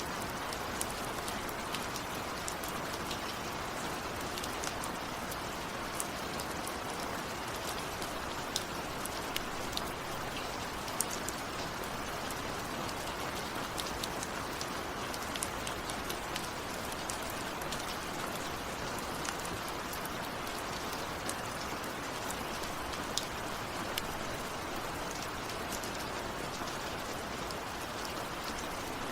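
Steady heavy rain, with scattered sharp drop impacts on a surface.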